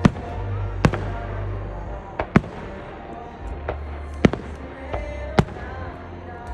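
Fireworks bursting overhead with about half a dozen sharp, irregularly spaced bangs, heard over music playing for the show.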